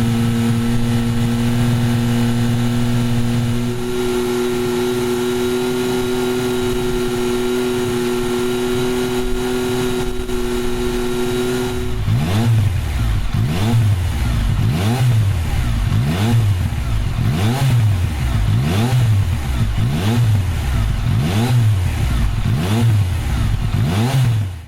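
Yamaha MT-09's three-cylinder engine through an OVER Racing TT-Formula titanium 3-into-1 full exhaust, held at steady revs and stepping up to a higher steady speed about four seconds in. From about halfway it is blipped over and over, roughly once a second, each rev rising and falling back.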